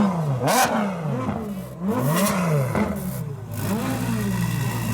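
A car engine revved in quick blips, its pitch rising and falling about five times, then settling to a steady idle near the end.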